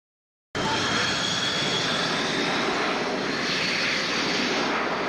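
Aircraft engine noise at an air show: a steady rushing sound with a faint, slowly falling whine, cutting in abruptly about half a second in.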